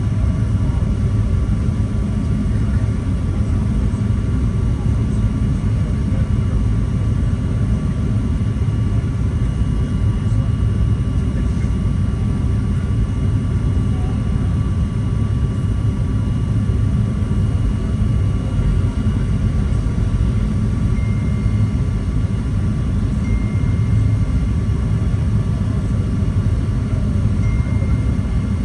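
Steady low rumble inside the passenger cabin of a Boeing 737-800 airliner: engine and airflow noise, with a few faint steady tones above it.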